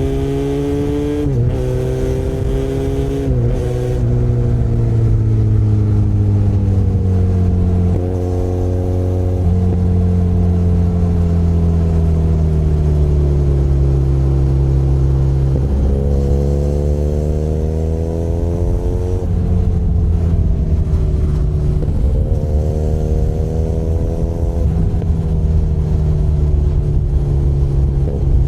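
Benelli Leoncino 500 Trail's parallel-twin engine under way, its pitch rising under throttle and breaking at a series of quick gear changes, then falling as the bike slows and climbing again, repeatedly over the stretch.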